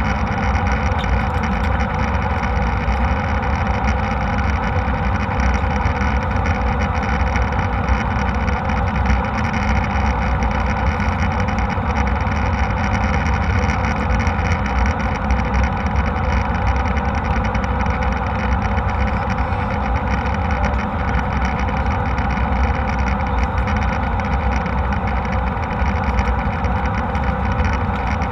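Steady jet airliner cabin noise in flight: engine and airflow noise, even and unchanging throughout.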